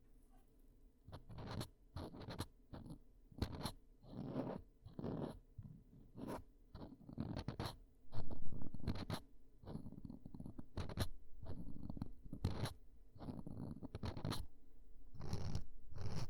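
Ear-cleaning sounds close on the microphone: a tool scratching and crackling in many short, irregular strokes, louder and denser about eight seconds in.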